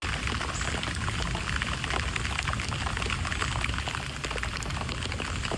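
Rain falling steadily, a dense patter of many separate drops hitting a surface, with a low rumble underneath.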